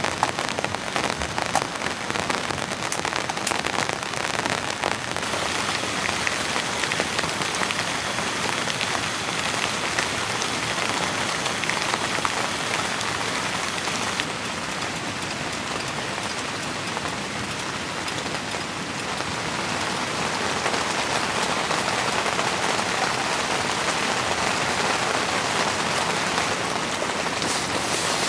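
Heavy rain falling steadily on the fabric of a Naturehike Dune 10.9 Pro hot tent, heard from inside: a dense hiss of countless drop hits. It eases a little midway, then grows heavier again over the last several seconds.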